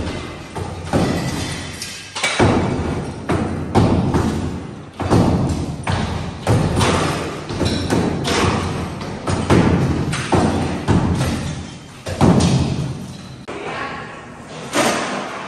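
Repeated heavy thuds and smashing blows, about one a second, of demolition work: the interior of a house being broken out by hand.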